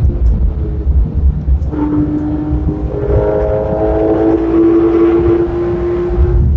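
Porsche 911 (991) RS flat-six engine heard from inside the cabin at track speed, under heavy road and wind rumble. About two seconds in, its note comes in strongly and then climbs steadily in pitch as the car accelerates.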